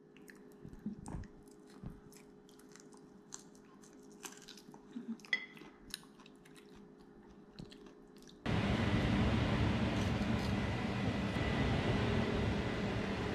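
Close-up chewing and crunching of food, a run of small sharp crunches and clicks for about eight seconds. Then the sound cuts abruptly to a louder steady hiss.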